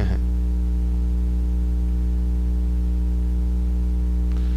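Steady electrical mains hum in the recording, a low buzz with a ladder of overtones that holds level throughout.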